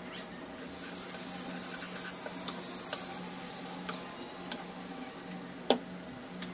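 Curry masala paste sizzling as it fries in a nonstick pan, stirred and scraped with a wooden spatula. The sizzle comes up about half a second in, with scattered light taps and one sharper knock of the spatula about five and a half seconds in.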